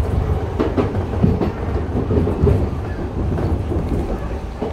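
Enshu Railway 2000 series electric train running, heard from inside the front car: a steady low rumble of wheels on rails, with irregular knocks as the wheels cross points in the first half.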